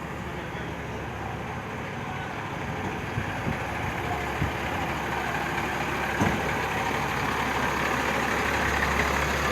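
Truck engine running steadily, growing gradually louder, with a few short knocks.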